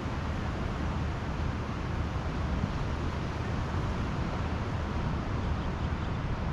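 Pacific Ocean surf breaking on the beach: a steady, even rush of waves with a deep low rumble.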